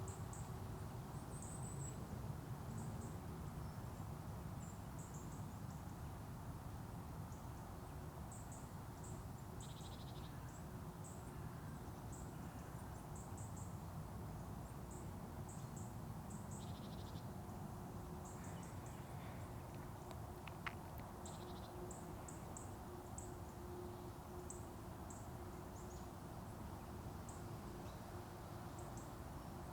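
Quiet forest ambience: a steady low background rumble with short, high-pitched chirps scattered throughout, and a few lower chirping calls.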